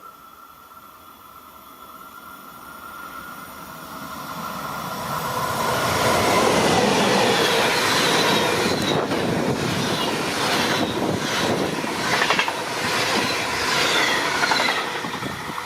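Locomotive-hauled Intercity train approaching and passing. It grows louder over the first six seconds, then its wheels clatter rhythmically over the rail joints through the second half.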